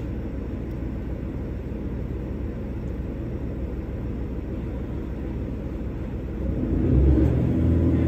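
Train engine rumbling low and steady at a platform, heard from inside a carriage. About seven seconds in it grows louder as power is applied and the train starts to move.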